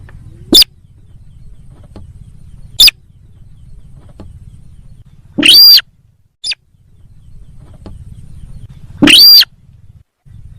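Lure recording of the sintar sawah bird's call: loud, sharp calls, two short ones in the first three seconds, then two longer calls that sweep up in pitch and fall again at about five and a half and nine seconds, over a faint low hum.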